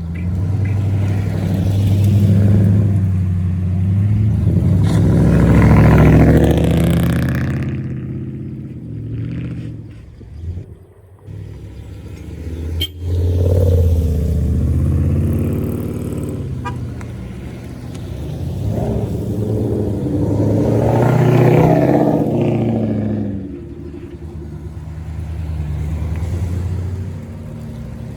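Customized VIP-style sedans with aftermarket exhausts driving past one after another, the exhaust note swelling as each car approaches and fading as it goes, loudest about 6 and 21 seconds in.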